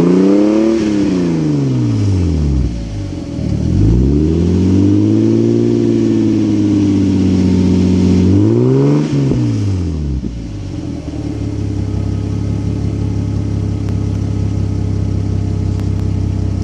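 Lexus GS300 with a Tanabe Hyper Medallion exhaust, set to sequential mode, free-revved to about 4800 rpm. A rev falls away, a second rev rises and is held for several seconds before dropping, there is a quick blip, and then the engine settles to a steady idle about ten seconds in.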